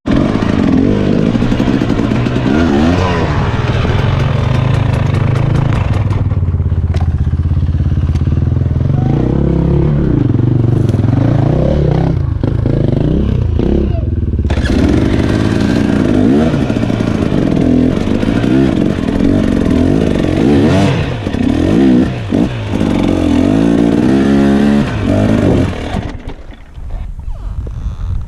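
Dirt bike engine running hard, its pitch rising and falling again and again as the throttle is opened and closed. It eases off near the end.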